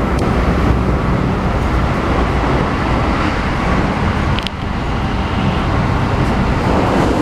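Keikyu New 1000 series electric train running, heard inside the passenger car: a steady rumble of wheels on rails and running gear. A short click and a brief dip in the noise come about four and a half seconds in.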